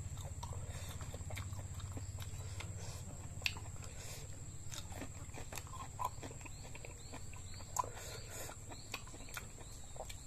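Close-miked wet chewing and mouth sounds of someone eating raw beef: soft smacks and many small clicks, with a few sharper pops, over a steady low hum.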